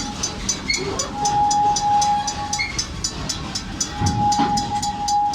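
Serengeti Express park train going past a railroad crossing while the crossing bell rings in quick, even strokes, about four a second. A steady high tone sounds twice, the second time from about four seconds in.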